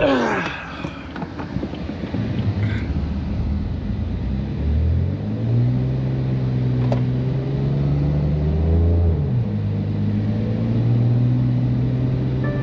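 BMW F80 M3's twin-turbo inline-six with catless downpipes and an open valved exhaust, running at low revs under light throttle while the car creeps through snow. A knock at the start, then the revs rise about five seconds in, hold, dip briefly around nine seconds and settle into a steady drone.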